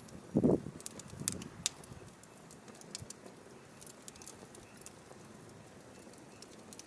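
Firewood burning, crackling with scattered sharp pops and a faint steady hiss. A brief, louder low sound comes about half a second in.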